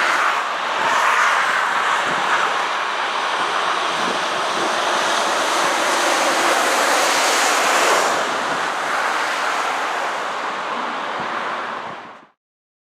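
Steady rushing noise of motorway traffic, tyre roar mixed with wind on the microphone, fading out quickly about 12 seconds in.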